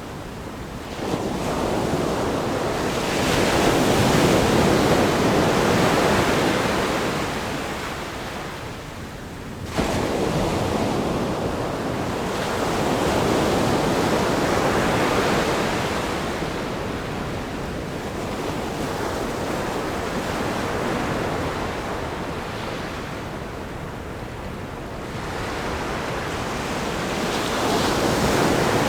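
Ocean waves crashing on a rock groin at a sandy beach, the surf swelling and ebbing in repeated surges. There is a sudden crash about a second in and another, sharper one near ten seconds in.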